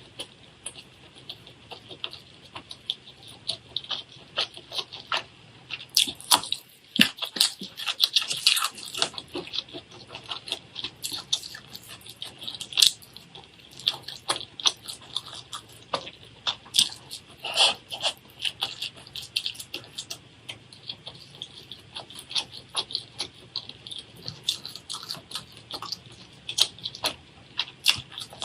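Close-miked eating: irregular crunching, chewing clicks and wet smacks, with no steady rhythm.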